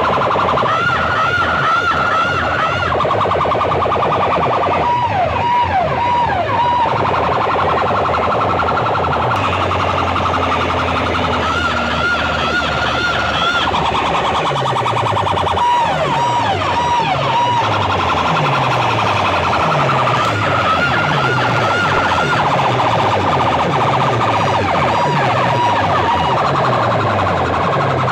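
Siren-like warbling and whooping effect tones blasted at high volume through a large DJ sound-box system in a sound competition. About halfway through, a steady run of falling bass sweeps, roughly one a second, joins them.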